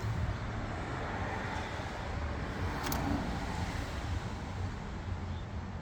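Steady low background rumble outdoors, with a single faint click about three seconds in.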